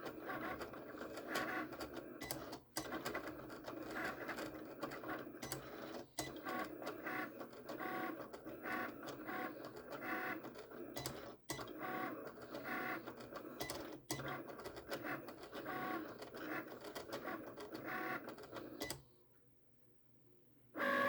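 Vinyl cutting machine working, its motors whirring and changing pitch as the blade moves, with brief pauses; it stops a couple of seconds before the end.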